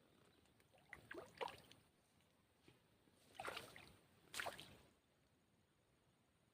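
Three short splashes and sloshes of water, about one, three and a half and four and a half seconds in.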